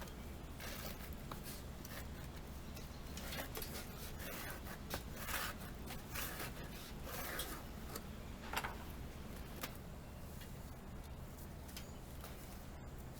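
Hand-tool work on a mountain bike being stripped down: scattered short scrapes, rubs and small metallic clicks as parts are handled and removed, busiest in the middle, over a steady low hum.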